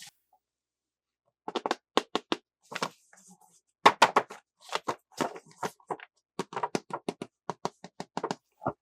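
Hands handling plastic toy packaging and parts: a quick, uneven series of sharp clicks, taps and crinkles, starting about one and a half seconds in.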